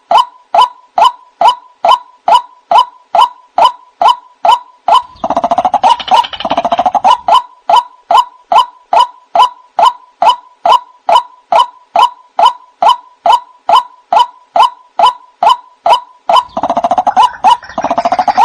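White-breasted waterhen calling, a monotonous series of "kru-ak" calls at about two a second. About five seconds in, and again near the end, harsher overlapping calling joins the steady series.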